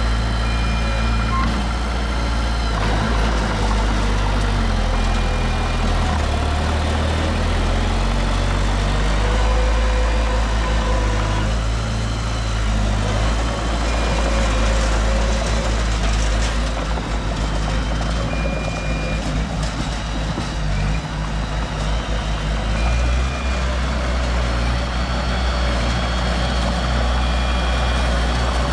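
Heavy diesel construction machinery running steadily, with a deep engine drone that shifts in load. A short, high beep repeats every few seconds, typical of a reversing alarm.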